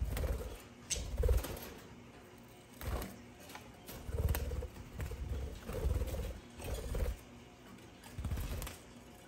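Short, low bird calls repeated every second or so, mixed with low thumps as budgerigars land on and shift along a wooden perch.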